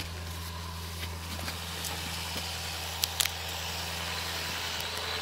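A car engine idling with a steady low hum, and a couple of short clicks about three seconds in.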